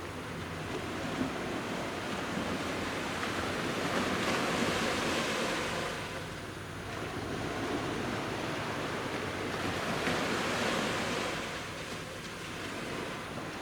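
Sea waves breaking on a beach, about one metre high: a rush of surf that swells and fades twice, roughly six seconds apart.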